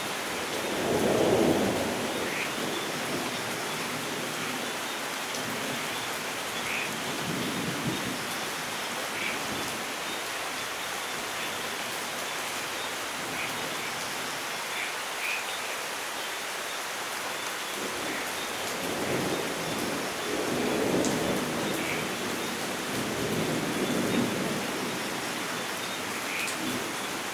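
Steady heavy rainfall in a rainforest, with thunder rumbling: a loud roll about a second in, a brief one near eight seconds, and a longer rolling rumble in the last third. Faint short chirps sound now and then over the rain.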